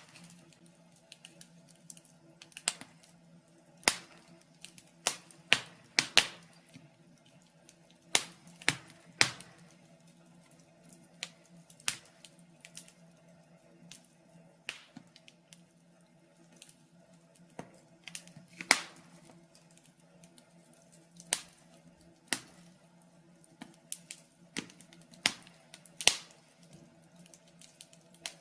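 Wood fire in a fireplace crackling, with irregular sharp pops and snaps of uneven loudness over a faint steady low hum.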